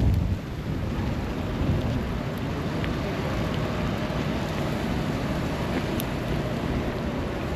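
Steady low rumble of city street ambience: traffic noise mixed with wind on the microphone, after a brief low thump that dies away in the first half second.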